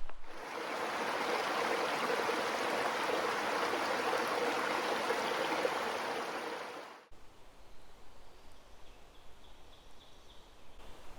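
Steady rushing water that cuts off suddenly about seven seconds in, leaving only faint background.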